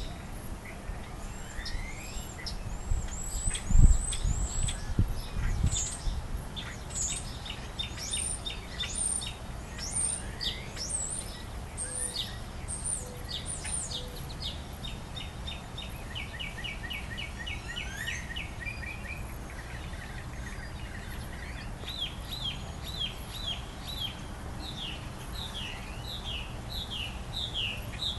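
Songbirds chirping and singing, ending in a run of quick falling chirps about two a second, over a steady low rumble. A few dull low thumps come around four to six seconds in, the loudest at about four seconds.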